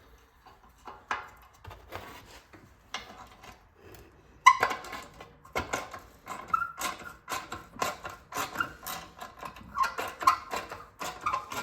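A hand wrench working bolts loose on a Clinton 410 small engine. A few scattered metal clicks, then from about four and a half seconds in a quick, steady run of clicks and short metallic squeaks.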